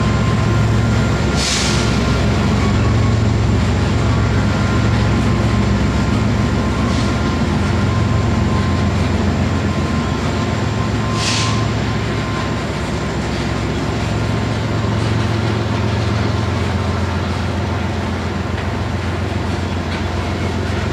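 Loaded coal hopper cars of a freight train rolling past: a steady low rumble of steel wheels on rail. Brief high-pitched wheel squeals come about a second and a half in and again about eleven seconds in.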